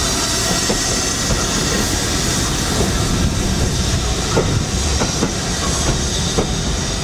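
Steam-hauled train running past: a steady rumble with scattered clicks of wheels over rail joints and a hiss of steam that fades near the end.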